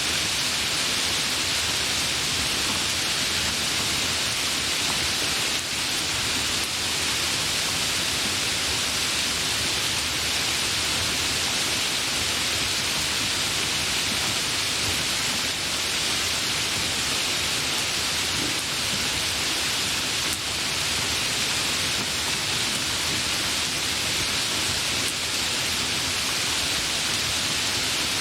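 Steady rain falling, an even hiss strongest in the upper range, with no thunder or distinct drops standing out.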